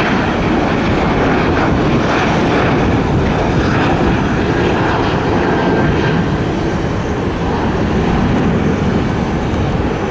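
Airplane engines, loud and steady.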